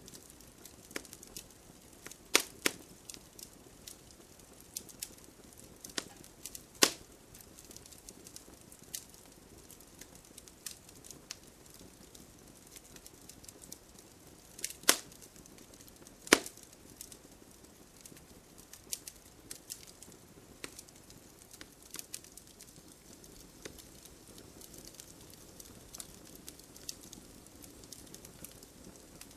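Wood fire burning with a low steady hiss and scattered sharp crackles and pops; the loudest pops come a few at a time, with longer quiet stretches between them.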